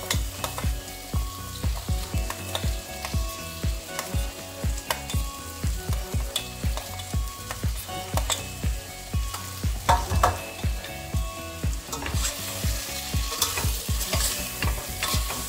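Vegetables sizzling in oil in a steel pressure cooker as cubed potatoes are spooned in, with clinks of a steel spoon and stirring. Background music with a steady beat plays throughout.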